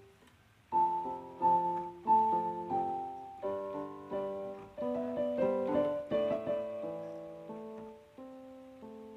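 Background piano music: a slow melody over chords, each note struck and left to ring and fade, entering about a second in.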